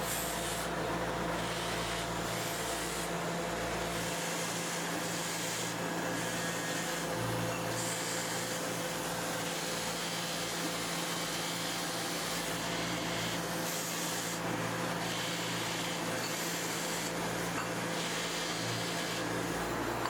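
A steady machine hum under a continuous rubbing, rasping noise, like tool work on a workpiece, which swells and eases every few seconds.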